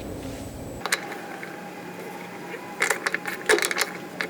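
Irregular sharp clicks and knocks of hand tools on metal hardware, starting about three seconds in, from fitting a boat's steering wheel.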